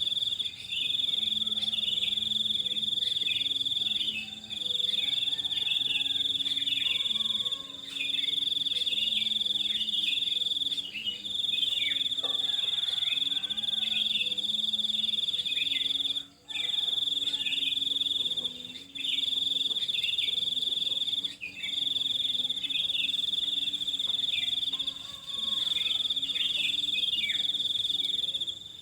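A steady, high-pitched insect trill, like crickets or cicadas, breaking off briefly every few seconds. Faint bird chirps sound beneath it.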